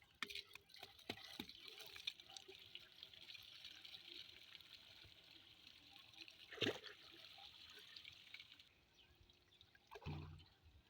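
Faint flowing, splashing water that stops about nine seconds in, with one sharp knock partway through and a dull thump near the end.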